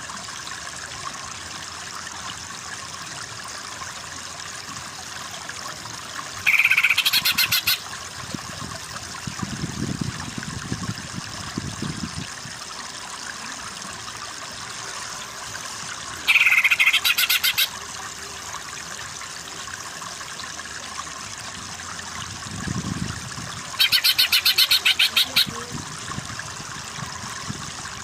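Greater green leafbird (cucak ijo) calling in three separate bursts of fast, rattling trilled chatter, each lasting about a second, over a steady rush of flowing water.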